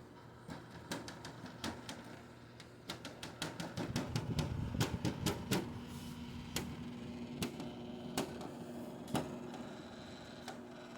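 Samsung air conditioner's casing rattling: a run of rapid clicks and ticks, densest in the middle and sparser later, with a steady low hum coming in about halfway. The noise comes from the casing panels and their joints, not from loose screws, a chronic Samsung problem.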